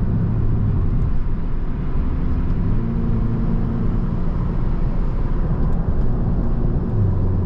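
BMW 330i cruising at a steady moderate speed, heard from inside the cabin: a steady low road and tyre rumble with a faint hum from its four-cylinder engine, which is barely audible.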